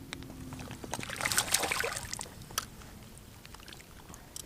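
Water splashing and sloshing in a short burst about a second in, with scattered light clicks and ticks around it.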